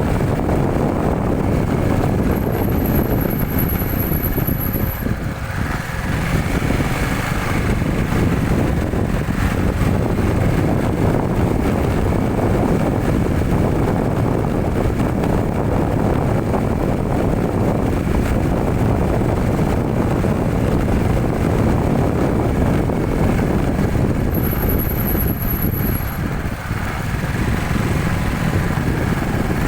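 Steady vehicle noise on the move: engine and road noise heaviest at the low end, with a faint high whine heard twice.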